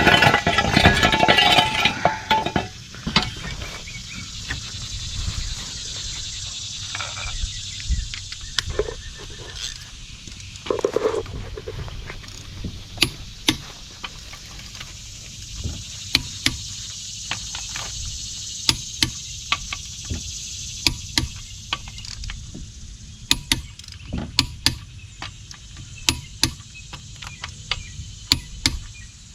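Sharp metallic clicks of a wrench as the wheel's lug nuts are torqued, irregular at first and coming more often near the end. It opens with a loud, harsh pitched noise lasting about two seconds, and a steady high hiss runs underneath.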